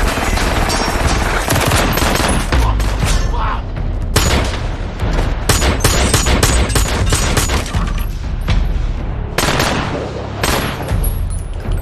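Heavy gunfire from several guns at once, rapid shots overlapping in dense volleys, with short lulls about four seconds in and again near ten seconds.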